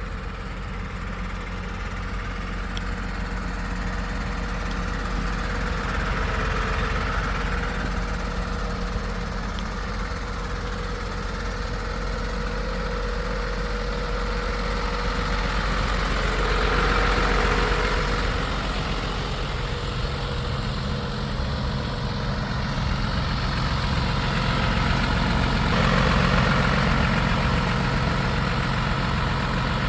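MAN TGL 12.250 truck's six-cylinder diesel engine idling steadily, growing a little louder and softer at times.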